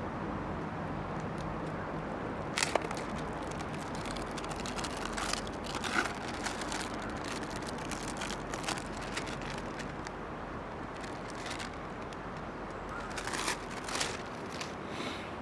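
Wood fire crackling in a small fire stand, with scattered sharp pops and snaps over a steady rushing background.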